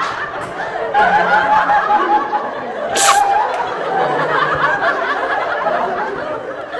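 People laughing and chuckling, with a short sharp hissing burst about three seconds in.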